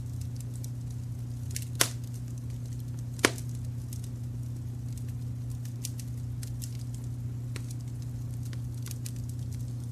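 Wood fire crackling, with many small irregular crackles and two loud sharp pops at about two and three seconds in, over a steady low brown-noise rumble.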